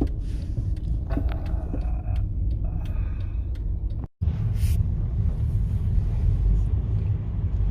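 Steady low rumble of a car driving, heard from inside the cabin. It cuts out for a moment about four seconds in, then carries on.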